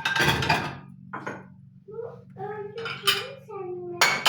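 Dishes and cutlery clattering and clinking, with a sharp clatter at the start, a knock about a second in and another clatter near the end. Between them come short pitched tones that bend in pitch.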